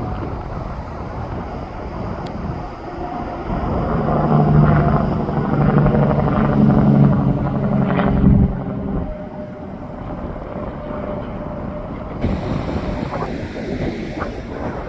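Interstate traffic rushing past, with a tractor-trailer going by close about four seconds in. It makes a loud, steady multi-tone drone for about five seconds, then the road noise settles back.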